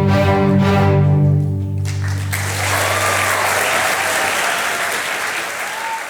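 A string orchestra holds its final chord, which dies away about two seconds in, followed at once by audience applause that gradually fades.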